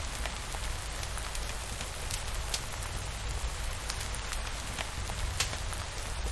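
Steady rain falling, with a low rumble underneath and scattered sharp ticks of individual drops.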